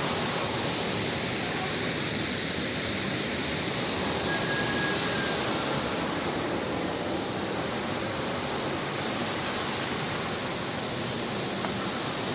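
Steady rushing noise that eases slightly about halfway, with a brief thin whistle a little after four seconds in.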